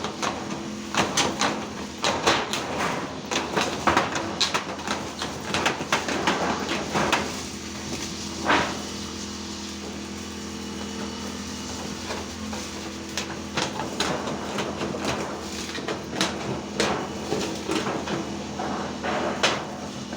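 Irregular knocks and clattering impacts of construction work, coming thick and fast, easing off around the middle and picking up again, over a steady engine-like hum.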